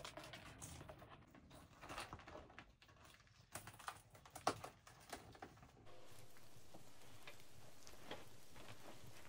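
Faint scattered clicks and light knocks of small handling sounds. About six seconds in they give way abruptly to a steady faint hiss.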